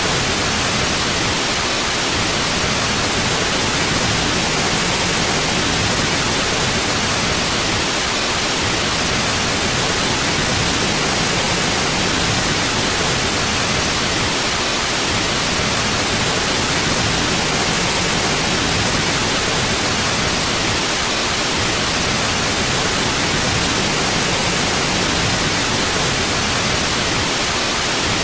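Steady, unchanging white noise: an even hiss with no tones or events in it.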